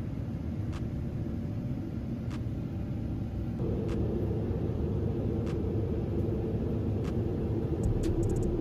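Airliner cabin noise on a Boeing 777-200 during descent: a steady low rumble of engines and airflow. About three and a half seconds in, a steady hum joins and the rumble grows a little louder.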